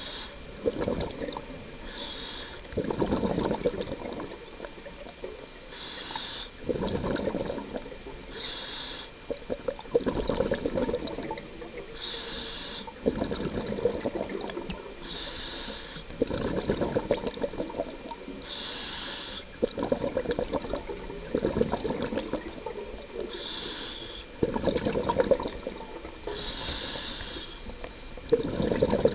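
Scuba diver breathing through a regulator underwater. A short hiss on each inhale alternates with a gurgling burst of exhaled bubbles, one breath about every three to four seconds.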